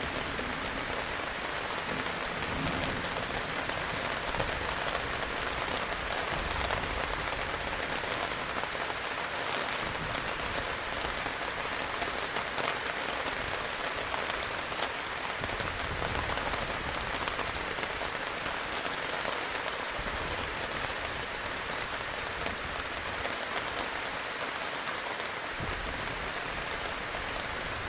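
Heavy rain falling steadily: an even hiss of rain with many small individual drop ticks, holding at a constant level throughout.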